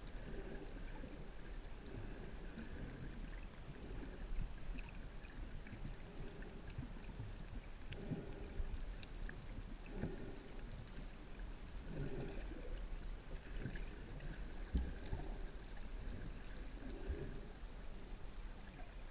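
Water sloshing and splashing in irregular surges every second or two over a steady low rumble.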